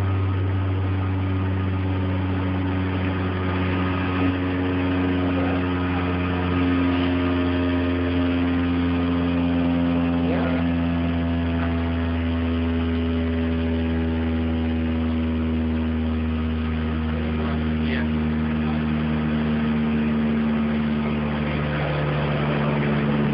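Car audio subwoofers playing a sustained, steady low bass tone for an SPL (sound pressure level) meter run, with the car's interior panels buzzing along.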